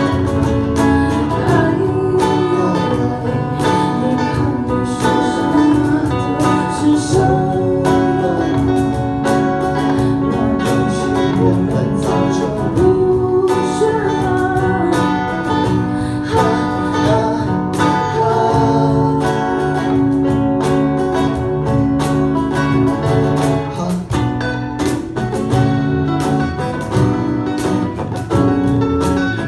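Band music led by strummed and plucked acoustic guitar, playing continuously at a steady level.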